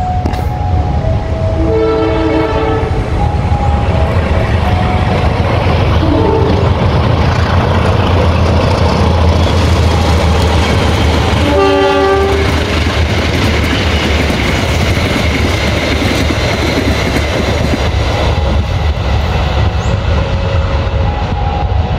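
Passenger train running through a station at speed behind a CC 203 diesel-electric locomotive: the steady rumble of the engine and the wheels on the rails. The locomotive's horn sounds twice, once about two seconds in and again more briefly about halfway through.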